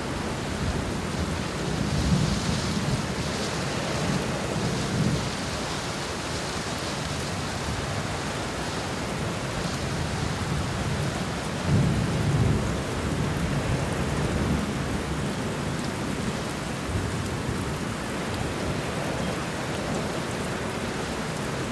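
Thunderstorm: steady rain falling, with low thunder rumbles swelling up a couple of seconds in and again about halfway through.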